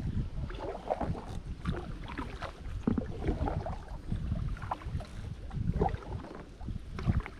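Kayak paddle dipping and splashing in the water beside an Itiwit X100+ drop-stitch inflatable kayak, in irregular strokes. A low rumble of wind on the microphone runs underneath.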